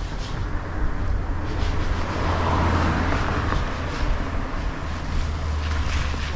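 Wind buffeting the microphone with a steady low rumble, and a broad rushing sound that swells up and fades away around the middle.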